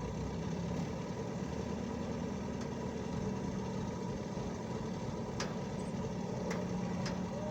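An engine running steadily at idle, with three short sharp knocks or clicks in the second half.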